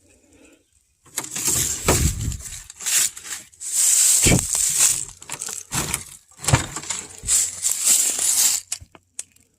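Irregular crunching and rustling of dry brush and debris, with a few dull thuds, as someone moves and works around a junked car. It stops shortly before the end.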